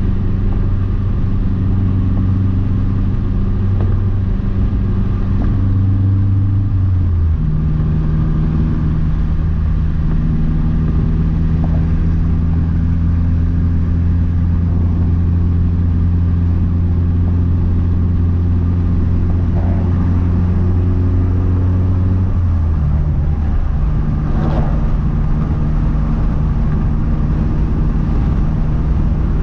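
Big-turbo 2012 Mazdaspeed 3's turbocharged 2.3-litre four-cylinder engine running with road noise while driving, a steady low drone. The engine note drops slightly in pitch about seven seconds in and shifts again a little after twenty-two seconds.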